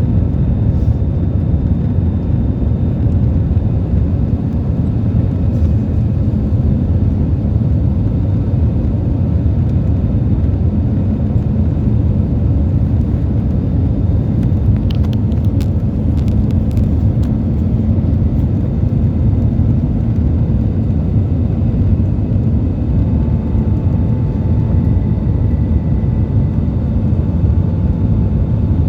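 Airbus A320 jet engines and airflow making a loud, steady rumble, with faint steady whining tones on top. A new steady tone joins about two-thirds of the way through.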